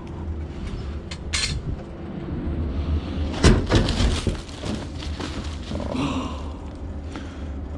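Knocks, clicks and clatter of rubbish and scrap items being handled and moved, loudest about three and a half seconds in, over a steady low hum.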